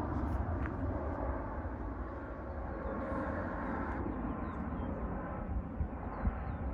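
Jet airliner passing overhead: a Southwest Airlines Boeing 737 making a steady low rumble.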